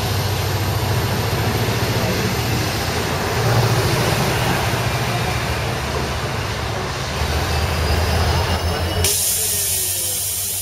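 Israel Railways double-deck train pulling out past the platform: a steady rumble of wheels and running gear on the rails with a low hum. About nine seconds in the sound changes sharply to a loud steady hiss of air at a standing diesel locomotive.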